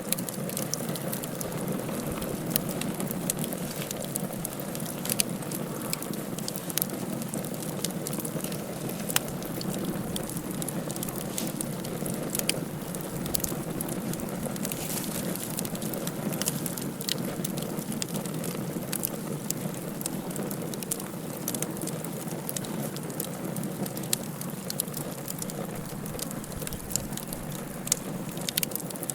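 Wood fire burning in a fireplace: a steady hiss with frequent sharp crackles and pops.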